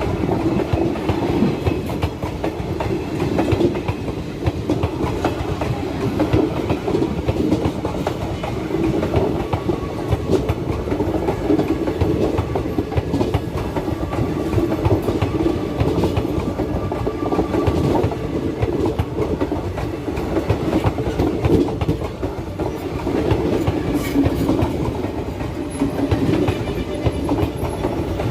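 Train wheels clattering steadily over the rail joints under a continuous rumble as the Indian Railways train runs past.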